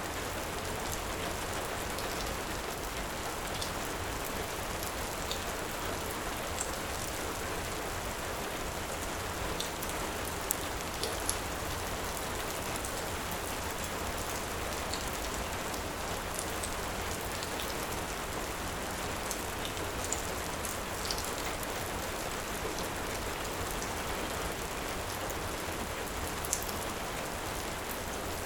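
Heavy rain falling steadily, with a few scattered sharp pops.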